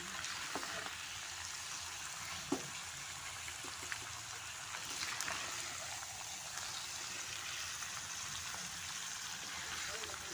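Duck pieces in spice paste sizzling steadily in a metal frying pan, with a few light clicks of a spatula against the pan.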